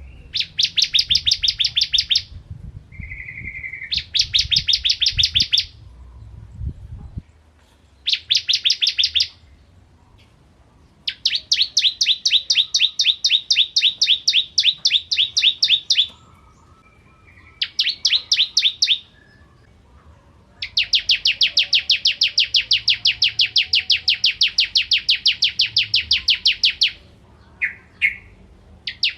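Ciblek (bar-winged prinia) singing the 'kristal' song type: bursts of rapid, evenly repeated high notes. Some bursts last a second or two and the longest go on for five or six seconds, with short pauses between them and one brief lower note about three seconds in.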